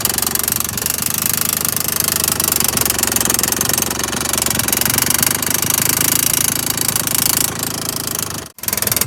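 Honda AF27 Super Dio scooter's small two-stroke engine running steadily with a loud, rapid clicking knock. This is the abnormal ticking that persists at idle despite an engine swap, new plug and cleaned carburettor; the owner suspects the reed valve, crank oil seal or clutch. The sound cuts out for a split second near the end, then carries on.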